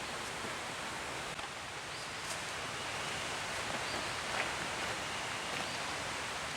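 Steady rushing of a creek, with a few faint ticks and rustles over it.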